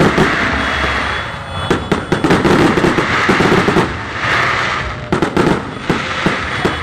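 Fireworks display: a rapid string of bangs from shells bursting, mixed with dense crackling.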